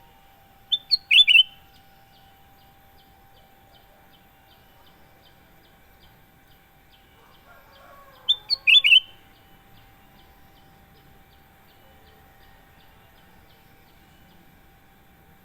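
Kutilang emas bulbul calling: two short bursts of three or four quick, high chirping notes, about seven seconds apart. A faint steady hum lies underneath.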